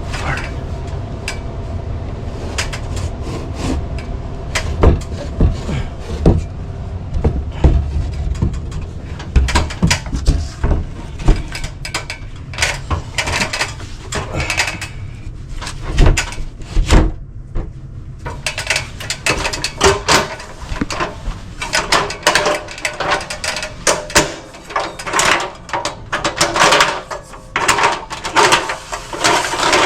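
Knocks, clicks and rattles of an air handler's sheet-metal access panel being closed up and tools being handled, over the steady low hum of the running unit; the clatter grows busier in the last third.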